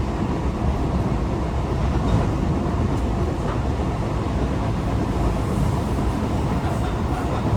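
Tokyo Metro 18000 series electric train heard from inside the car while running between stations: a steady, even rumble of wheels on rails with a faint steady tone above it.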